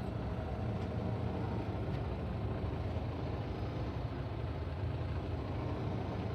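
Steady low engine drone heard from inside a semi-truck's cab.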